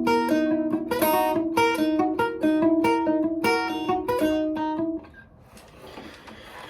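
Guitar improvising a line of plucked notes over a held low note, stopping about five seconds in.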